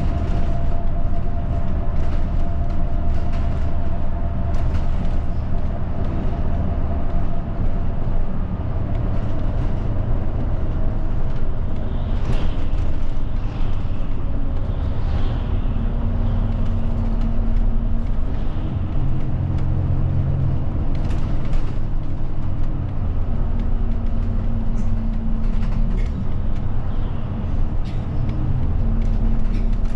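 Route bus engine and road noise heard from inside the cabin while driving. The engine note steps up and down several times as it changes speed or gear.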